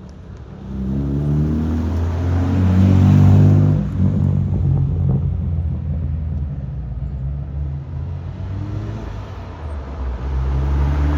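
Car engine revving as a car accelerates away, loudest about three and a half seconds in, then running on at a steadier pitch, with another engine building up near the end.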